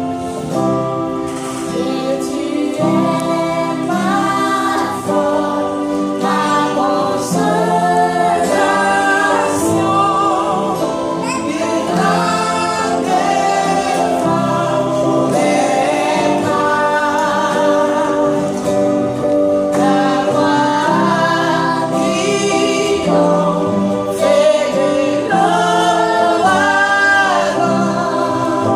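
A woman and a group of children singing a gospel praise song together over sustained instrumental accompaniment.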